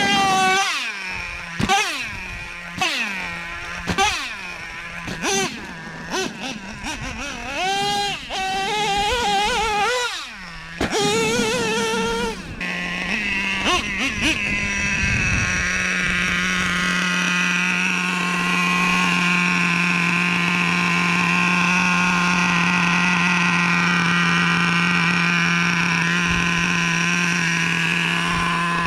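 Traxxas Revo 3.3 nitro RC monster truck's OS .21 two-stroke glow engine revving in many short bursts, its pitch swooping up and down. About twelve seconds in it settles into a steady high-pitched whine held at constant revs for the rest.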